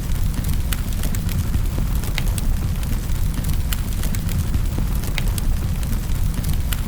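Wood fire burning in a fireplace: a steady low rumble of the flames with irregular sharp crackles and pops of the burning wood.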